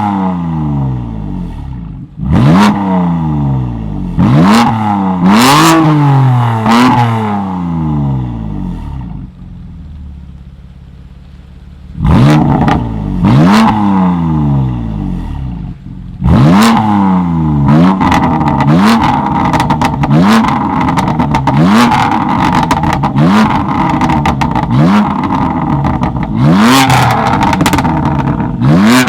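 Tuned car engine revved hard again and again with sharp exhaust pops and cracks as the revs drop. It settles to a steady idle for a few seconds near the middle, then is blipped in a quick, regular series of short revs.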